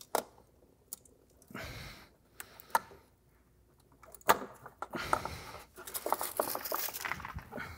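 Hands working behind a car's plastic front bumper cover to unplug the fog light connector. A few sharp plastic clicks are followed, about five seconds in, by a longer stretch of rattling and scraping.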